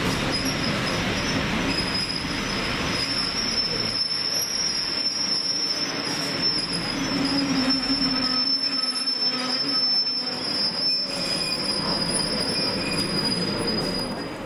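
Train wheels squealing against the rails: one steady high-pitched squeal that cuts off at the end, over the rumble of the passing train.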